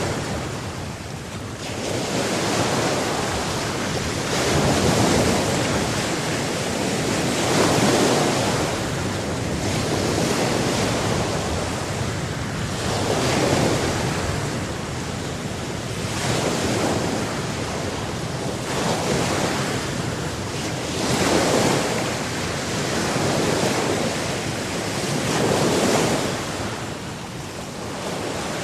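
Sea waves breaking and washing on the shore, a steady rush that swells with each wave every few seconds, with wind on the microphone.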